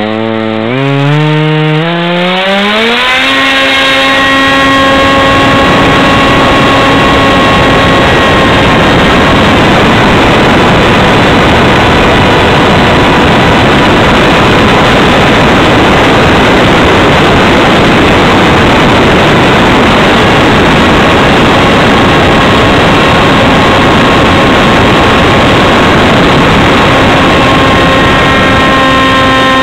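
Radjet 800 RC plane's electric motor and propeller whining up in pitch over the first few seconds as the throttle is opened, then holding a steady high-throttle tone. A heavy rush of wind over the wing-mounted camera's microphone largely covers the whine through the middle, which shows through again near the end.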